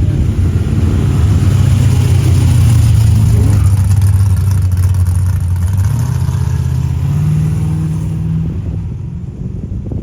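Car engine running with a deep, steady exhaust note that rises in pitch about seven seconds in and then fades as the car moves off.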